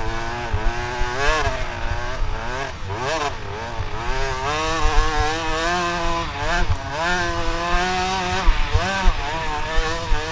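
Motocross dirt bike engines revving up and down over and over, the pitch rising and falling every second or so as the riders work the throttle.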